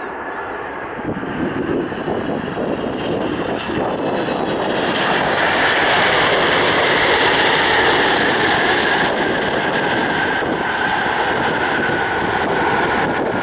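Airliner's engines growing loud as it passes close by, with a high whine that slowly drops in pitch as the plane moves away.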